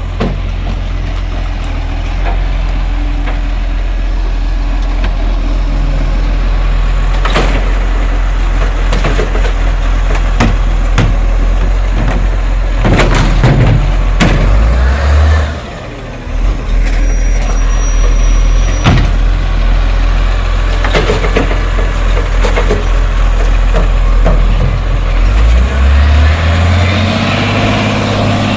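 Garbage truck's engine running loudly as it works a bin collection, with several clanks and bangs around the middle and the engine revving up near the end.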